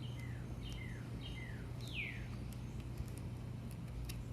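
A bird calling: four short chirps about half a second apart, each sliding downward in pitch, the last one longer and louder. A low steady hum runs underneath.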